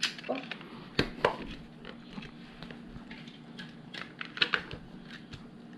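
Small plastic LEGO bricks clicking and rattling as they are handled and pressed together, a scatter of irregular sharp clicks, with a couple of louder ones about a second in and again near four and a half seconds.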